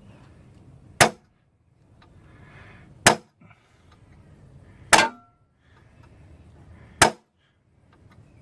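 Hammer striking a center punch on a snapped hardened-steel easy-out in an exhaust stud, marking a starting point for drilling it out: four sharp metallic strikes about two seconds apart, the third leaving a short ring.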